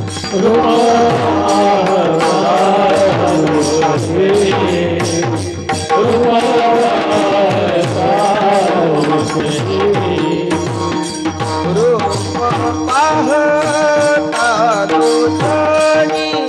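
Marathi devotional bhajan music: a harmonium holding a steady drone and melody over a fast, even beat of hand drum and small hand cymbals. A voice sings long gliding notes with no clear words.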